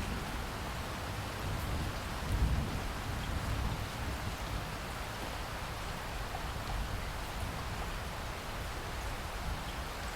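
Steady rain falling, with a low rumble of thunder underneath that swells briefly about two to three seconds in.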